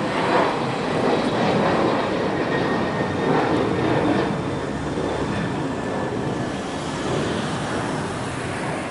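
Jet airliner engines running at takeoff thrust: a loud, steady rush of noise with a faint high whine, easing off slightly near the end.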